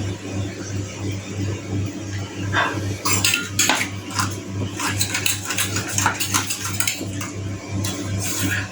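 A spoon stirring a wet spice paste of cumin and coriander powder in a bowl, clinking against the bowl in quick, irregular clicks that start about two and a half seconds in.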